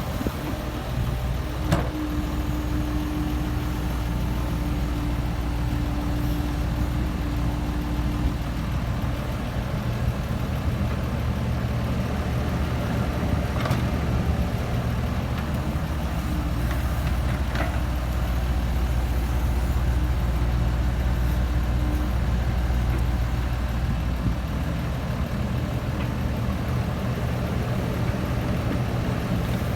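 Komatsu PC70-8 mini excavator's diesel engine running steadily, with an added steady tone for the first several seconds and a few sharp knocks scattered through.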